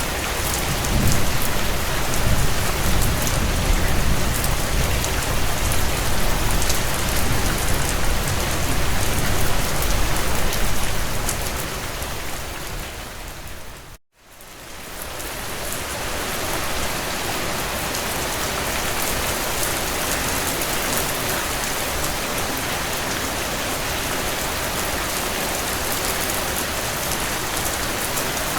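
Steady heavy rain on window panes, with a low rumble under it for the first ten seconds or so. About halfway through, the sound fades to a moment of silence and fades back up to the same steady rain.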